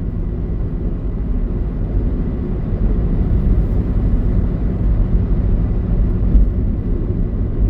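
Car driving at freeway speed: a steady low rumble of road and engine noise.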